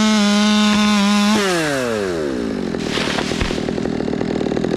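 Chainsaw held at full throttle, then released: its pitch falls over about a second and it settles to a fast, pulsing idle, with a couple of sharp knocks about three seconds in.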